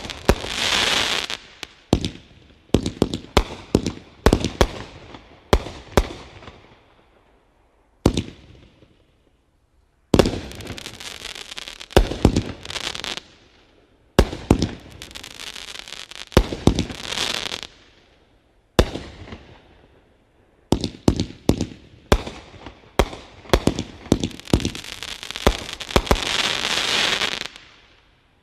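Demon Slayer 500-gram consumer fireworks cake firing its shots: runs of sharp bangs as shells launch and burst, each run trailed by a fading rush of noise, with two brief lulls between volleys.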